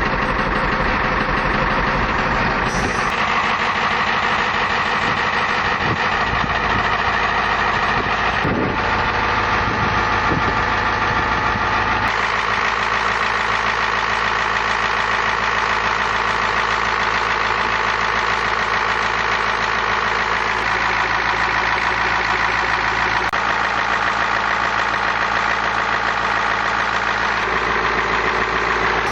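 Ford 7.3L IDI V8 diesel idling steadily with rapid, even firing pulses, still cold just after a cold start in freezing weather. The tone shifts slightly about 3 and 12 seconds in.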